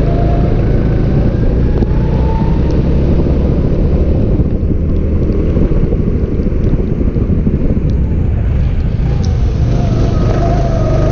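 Go-kart engine running, heard onboard under heavy wind buffeting on the microphone in the wet. The engine's pitch is clear at first, sinks under the rushing noise in the middle, and comes back rising near the end.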